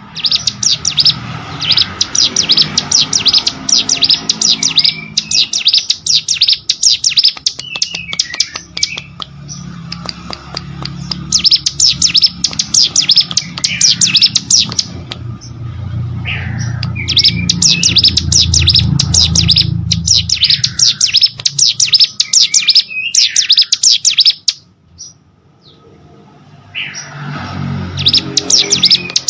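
Ciblek sawah, a small prinia, singing: bouts of fast, high chirping trills a second or two long, repeated with short gaps, with a longer pause a few seconds before the end before it starts again. A low hum runs underneath.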